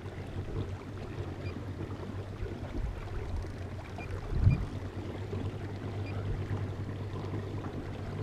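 Water lapping and splashing around a kayak over a steady low rumble, with one loud thump against the boat about halfway through.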